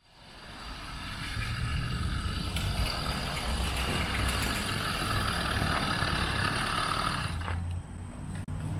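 A vehicle engine running with a low rumble and a steady higher whine. The sound fades in over the first second or so, and the whine cuts off suddenly about seven and a half seconds in.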